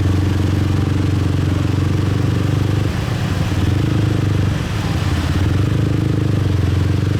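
Motorbike engine running steadily under way, with road and traffic noise, heard from the rider's seat; the engine note holds even with a slight dip about three seconds in and again near the middle.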